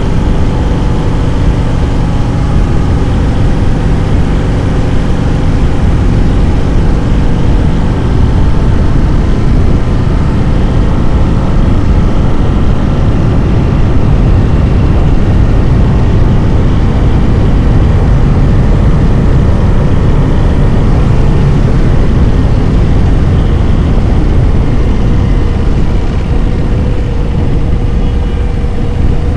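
Harley-Davidson motorcycle riding along, its V-twin engine running steadily under road noise.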